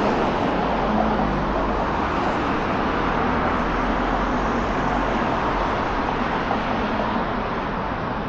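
Steady city street traffic: passing cars and engines with a low rumble, easing off slightly near the end.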